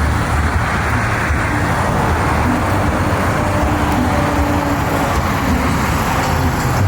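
Steady low rumble of vehicle engines running, with a constant noisy haze over it.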